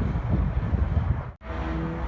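DLE-55cc single-cylinder two-stroke gasoline engine of an RC airplane running steadily, with a momentary dropout to silence about a second and a half in.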